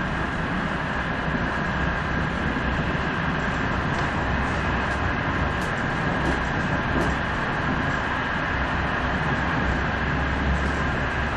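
Steady rumble and hiss of a train running along the line, heard from inside the carriage, with a steady high tone running through the noise and a few faint ticks.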